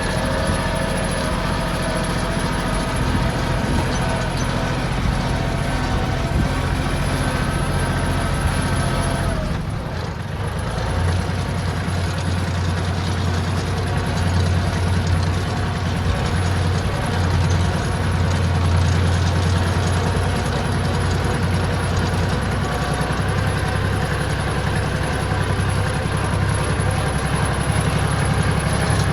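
Tractor engine running steadily, with wind noise over it. About ten seconds in the engine sound dips briefly, then comes back with a heavier low hum.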